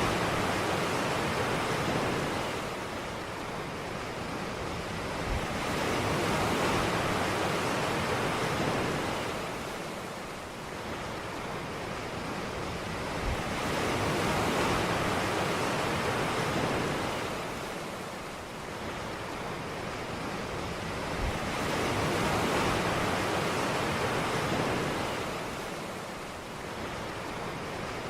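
Ocean waves washing onto a beach, the surf swelling and falling away about every seven or eight seconds, four times, over a steady hiss.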